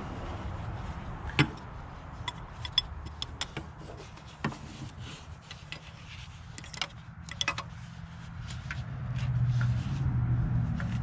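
Scattered metallic clicks and clinks of hand tools and parts being handled on an engine, over a steady low rumble that swells near the end.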